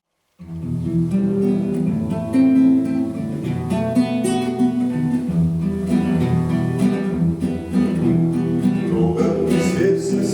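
Instrumental introduction to a song led by acoustic guitar, strummed and plucked, starting suddenly after a moment of silence.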